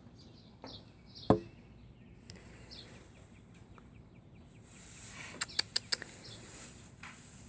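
Small birds chirping in short repeated high notes. A single sharp knock sounds about a second in, and a quick run of four sharp clicks comes a little before the end.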